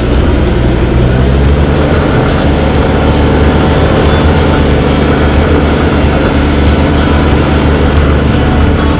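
Tractor engine and snowblower running steadily at working speed, a loud even drone.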